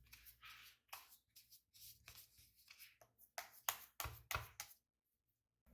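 Food-preparation handling sounds: a run of irregular light taps, knocks and rustles, loudest a few seconds in, then cutting out abruptly to silence shortly before the end.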